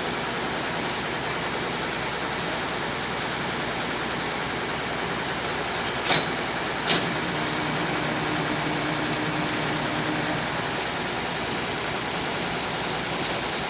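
Steady road-vehicle noise with two sharp knocks less than a second apart near the middle, followed by a faint low hum for a few seconds.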